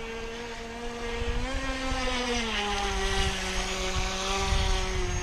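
Top Race TR-1200 RC speedboat's electric motor whining steadily as the boat runs on the water. Its pitch rises a little about a second and a half in, then drops a step and holds.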